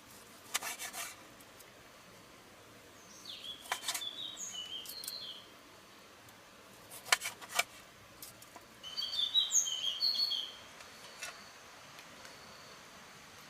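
A small bird chirping in two short phrases of high, gliding notes. Between them come brief clusters of dry scraping or rubbing clicks, near the start and about seven seconds in.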